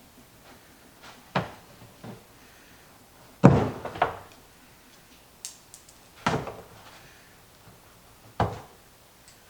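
Six or so separate knocks and thunks at irregular intervals, the loudest a double knock about three and a half seconds in, as the plastic compost tumbler lid and its riveted ring are handled and worked on during rivet removal.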